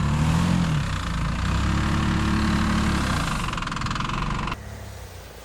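SUV engine running close by, its pitch rising briefly twice, then the sound cuts off abruptly about four and a half seconds in.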